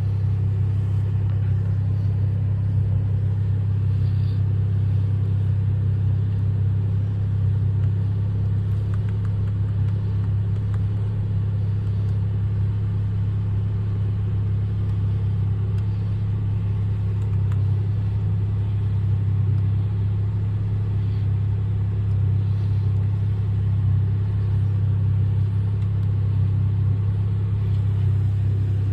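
2020 Dodge Charger SXT's 3.6-litre V6 idling steadily after a cold start: an even, low drone that doesn't change.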